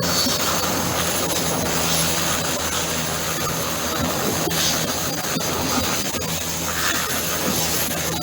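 Helicopter engine and rotor running steadily close by, a continuous even noise.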